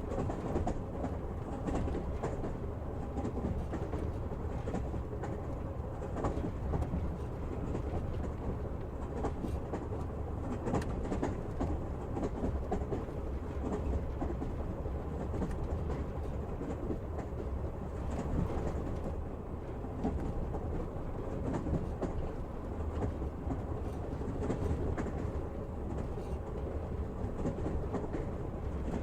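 A passenger train running along the track, heard from inside the carriage: a steady rumble of the wheels on the rails, with the odd faint click of wheels over the rail joints.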